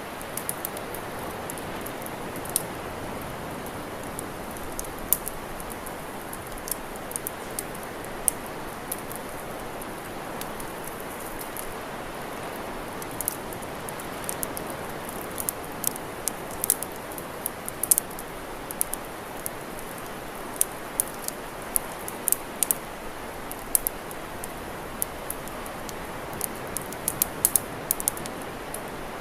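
Campfire crackling: sharp, irregular pops and snaps over a steady hiss, growing busier in the second half.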